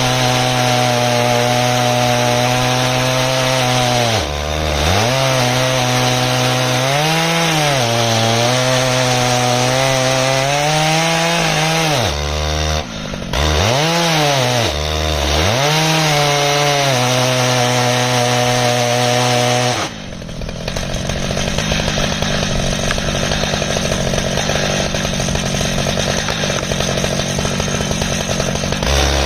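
Stihl MS 881 two-stroke chainsaw running under load as it rips through an ash log in an Alaskan chainsaw mill. Its engine pitch sags and recovers several times as the cut loads it. About twenty seconds in, the sound changes abruptly and the engine note becomes rougher and less clear.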